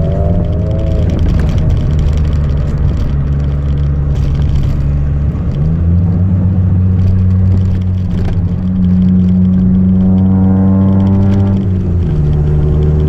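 Chevrolet Celta 1.0 inline-four with a 4x1 header and a two-inch straight exhaust without mufflers, running steadily. About halfway through the revs rise and hold higher, then drop back near the end.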